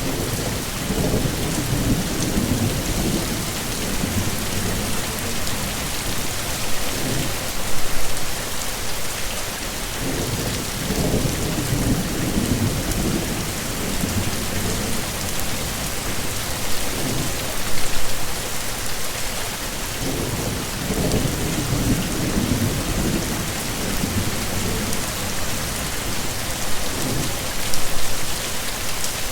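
Heavy rain falling steadily as a dense hiss, with low rumbles of thunder that come back about every ten seconds.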